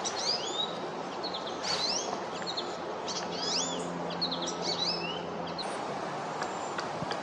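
Small songbirds chirping, a run of quick whistled notes that slide up and down, dying away about five and a half seconds in. A few faint taps follow near the end.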